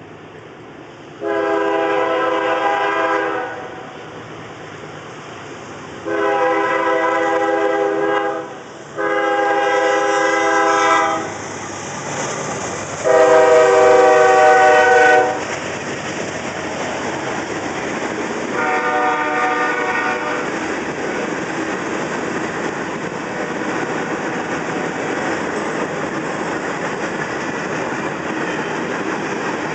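Freight locomotive's multi-chime air horn sounding five blasts for a grade crossing, each about two seconds long, the fourth the loudest and the last fainter. Then the steady rumble and clickety-clack of the freight cars rolling past.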